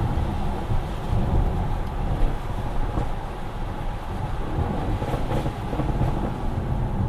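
Audi RS6 C7 Performance's twin-turbo 4.0 V8 running through its performance exhaust as the car is driven, a steady low rumble that swells and eases slightly, with road and wind noise.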